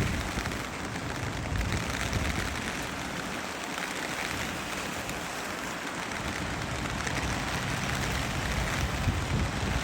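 Steady rain falling in a typhoon, with a low rumble underneath that drops away for a few seconds in the middle and then returns.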